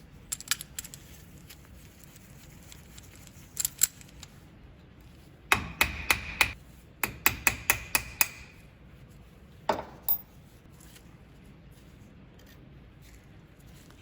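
Hand work on a small metal power tool: a few scattered clicks, then a quick run of sharp metallic taps and clinks that ring briefly, and one last clink about ten seconds in.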